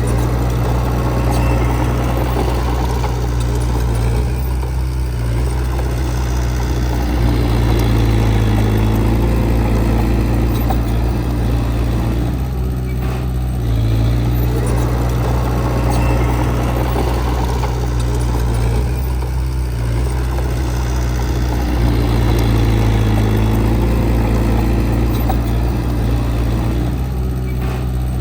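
Heavy diesel engine of an earthmoving machine running steadily under work, its tone and load shifting in a repeating cycle every six or seven seconds.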